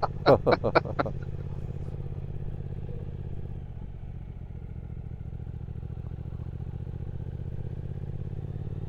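Triumph Speed Twin 1200's parallel-twin engine running at a steady road speed, with a quick run of sharp clicks in the first second.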